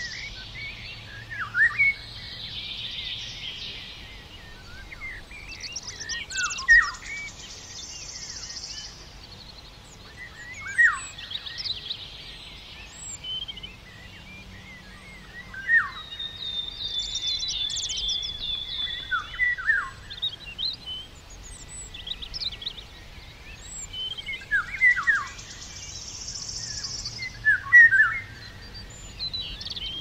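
Small songbirds calling in woodland: short, sharp chirps that slide downward, repeated every few seconds, with a fast high trill around the middle and softer buzzy notes in between.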